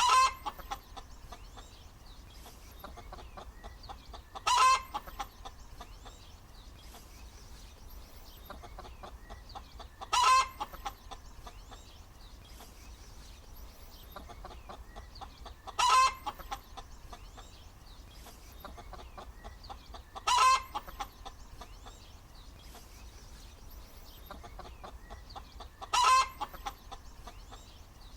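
Hen cackling: a loud, short squawking call about every five seconds, six in all, with softer clucking between.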